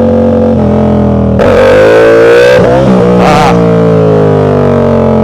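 Motorcycle engine running under way. About a second and a half in the throttle opens and the revs rise for about a second; the note breaks briefly near three seconds, then settles and slowly falls.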